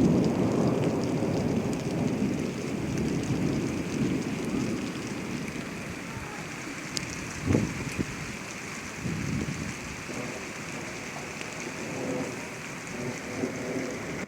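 Steady rain falling, an even hiss with scattered drop ticks, and a low rumble of thunder dying away over the first few seconds. A single dull thump about halfway through.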